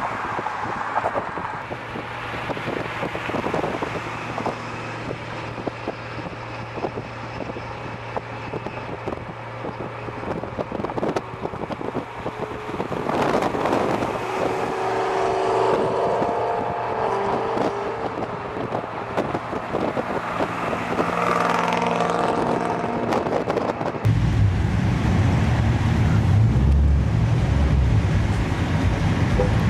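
Car engines running and cars driving by, with wind on the microphone. About 24 seconds in, the sound switches abruptly to a much louder, deep engine rumble.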